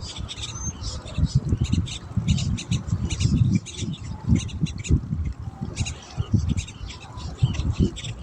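Birds calling in many short, sharp chirps and squawks, over an irregular low rumble.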